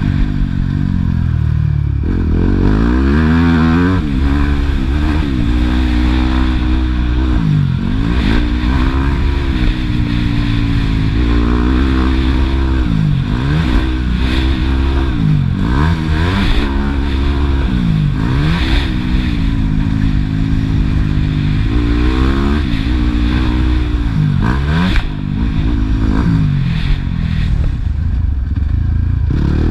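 Motocross bike engine, a Yamaha YZ250F four-stroke single, revving hard and falling back over and over as it is ridden around the track, rising through the gears and dropping off the throttle every second or two.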